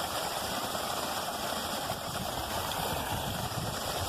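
Creek water rushing steadily, with an uneven low rumble underneath.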